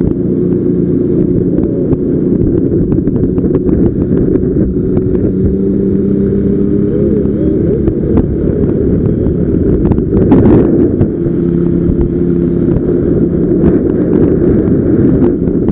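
Motorcycle engine running at a steady pitch while riding, with wind buffeting the microphone and a brief louder gust about ten seconds in.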